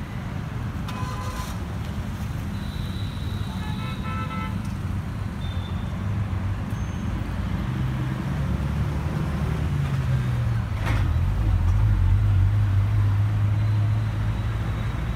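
Car engine idling with a steady low hum that rises and then settles lower about eight to twelve seconds in. Short runs of horn-like beeps come about a second in and again around four seconds in, and there is a single click about eleven seconds in.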